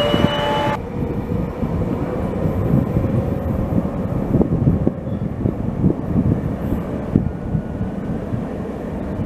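Regional train's wheels squealing on the rails, several steady high tones that cut off abruptly under a second in. Then a steady low rail rumble with irregular knocks and thuds.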